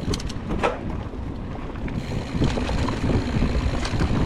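Mountain bike rolling along a dirt trail: steady low tyre rumble with wind buffeting the GoPro's microphone, and a few sharp clicks and rattles from the bike, a cluster of them about half a second in.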